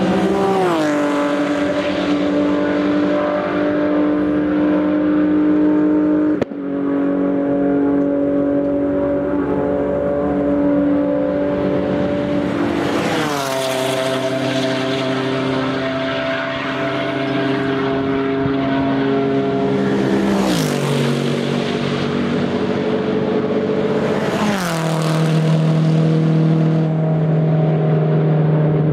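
Race cars with loud, unsilenced exhausts passing at speed, one after another. Each engine note holds a steady pitch on approach, then drops sharply as the car goes by. There are about four such pass-bys, with a brief click about six seconds in.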